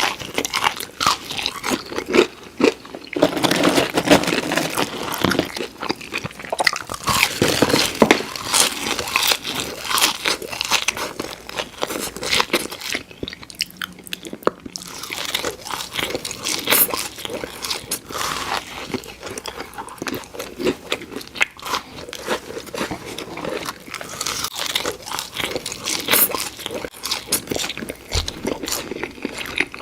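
Close-miked eating: loud crunching bites and chewing of crispy fried food, with a short lull about halfway through.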